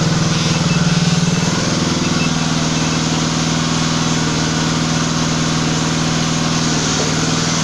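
Motor of a 700-bar high-pressure hydraulic pump running steadily with a low hum, easing slightly in level about a second and a half in.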